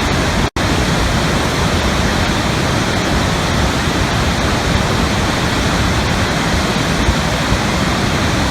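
Steady rushing roar of a large waterfall, with a split-second dropout about half a second in.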